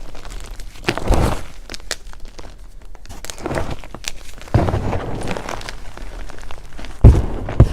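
Dyed blocks of Picsil gym chalk being crushed and crumbled in several separate bursts of crunching, with a sharp, loud crunch near the end.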